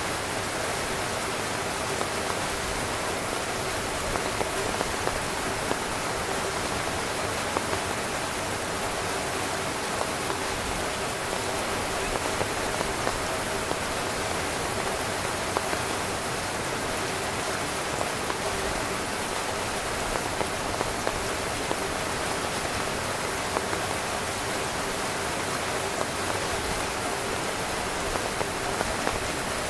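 Heavy rain drumming steadily on a tent's fabric, a dense hiss with many individual drops tapping sharply on top.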